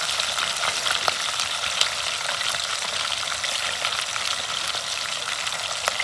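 Fish frying in hot oil in a pan: a steady sizzle with many small crackles and pops.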